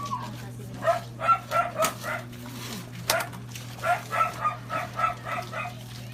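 An animal calling in quick runs of short notes of even pitch, about four a second, twice, over a steady low hum.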